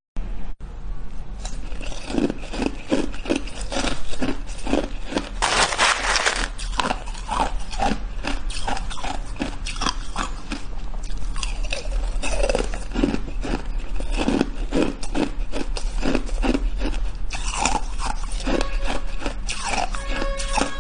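Shaved ice being bitten and chewed: a rapid, irregular run of crunches.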